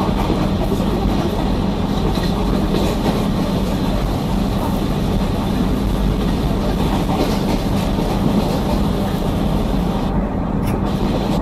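Passenger train running at speed, a steady loud rumble of wheels on rails with a hum and clickety-clack over the rail joints.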